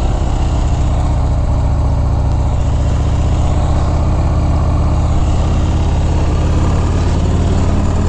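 Harley-Davidson Fat Bob's V-twin engine running steadily at low revs, with an even hiss above it.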